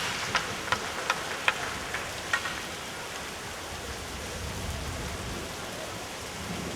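Steady hiss of heavy rain. In the first couple of seconds a string of sharp clicks, about three a second, fades out.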